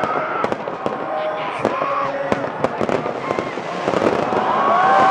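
Fireworks bursting and crackling in quick succession, with crowd voices shouting over them; the crowd's cheering swells about four seconds in.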